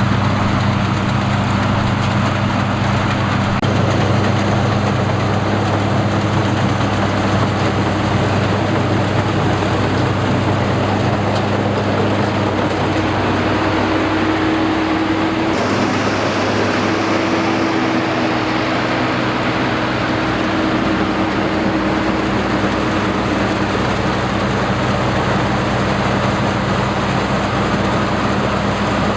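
Combine harvester engine running steadily with a loud, even drone. A higher tone in it shifts about halfway through.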